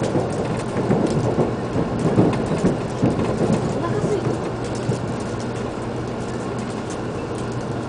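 Steady running rumble inside a Shinkansen train car on the move, with a constant low hum underneath.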